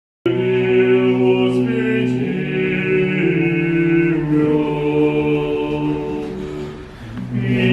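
Orthodox church choir singing a liturgical chant unaccompanied, in slow sustained chords. It cuts in abruptly about a quarter second in, eases off briefly near the end, then swells again.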